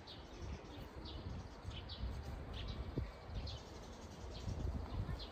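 A small bird chirping repeatedly, short high notes that slide downward, a little more than once a second, over a steady low rumble.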